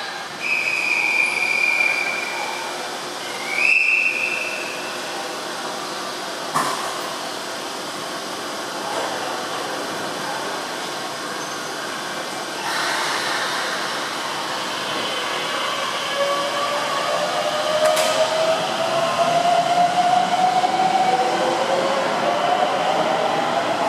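Two steady high whistle blasts in the first few seconds, then a single knock. After that a Keisei 3700-series electric train runs along the platform with a motor whine that rises steadily in pitch as it gathers speed.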